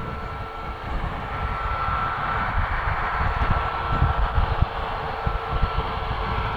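Jet engines of a Boeing 737 MAX 8 (CFM LEAP-1B turbofans) running, a steady whine over a rushing hiss, with wind buffeting the microphone in uneven low rumbles.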